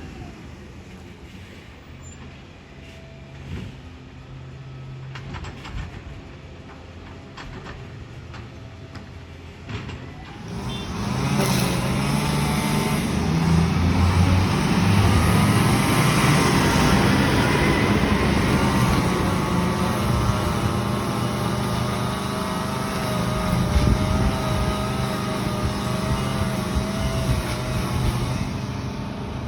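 Garbage truck idling, then revving up sharply about ten seconds in and running loud with a wavering whine over the engine noise.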